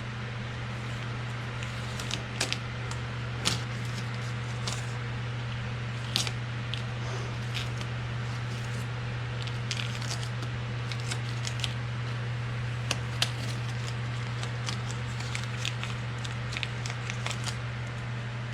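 Adhesive tape being peeled off by hand, giving scattered short crackles and ticks, over a steady low hum.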